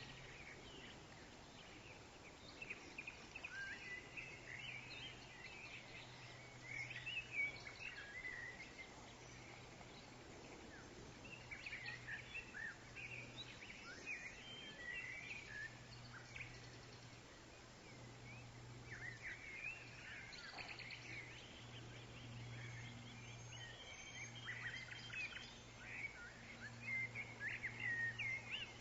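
Woodland songbirds chirping and twittering in quick bursts that come and go in clusters, over a faint steady low hum and a soft background hiss.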